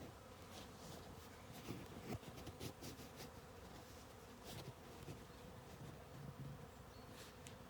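Faint steady hum of honeybees around their hives, with scattered light clicks and rustles.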